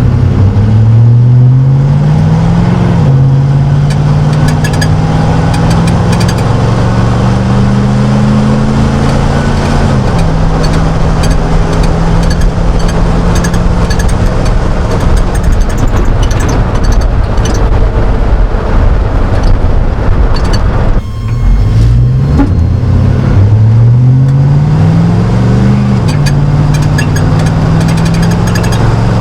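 A 1999 Chevrolet Silverado's 5.3L LM7 V8 exhaust through a Cherry Bomb straight-through muffler, heard inside the cab. The engine note climbs under acceleration and drops at two upshifts, then holds steady at cruise. It eases off briefly, then climbs again and drops at another upshift near the end.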